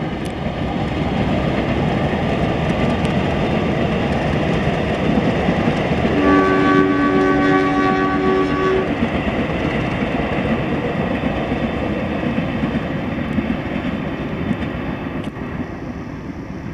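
Passenger train running with a steady rumble of wheels on rails. About six seconds in, a diesel locomotive's multi-tone horn sounds one blast of about three seconds.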